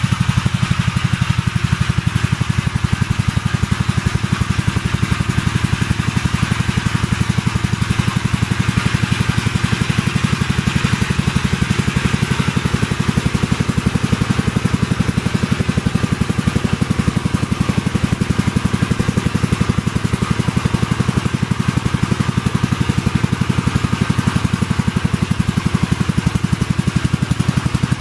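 Gravely walk-behind tractor's single-cylinder engine running at a steady, even speed, its firing pulses clear and regular.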